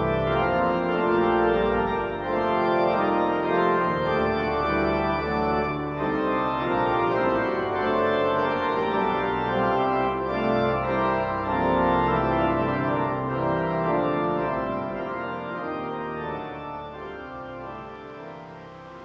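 The Salt Lake Tabernacle pipe organ plays held chords over a deep pedal bass. The sound fades away over the last few seconds.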